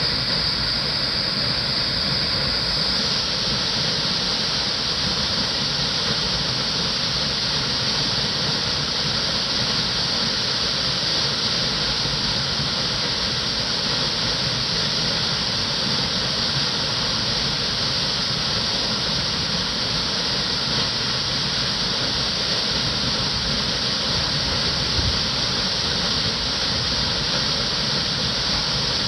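Shirogane Falls waterfall rushing with a steady, unbroken roar of falling water.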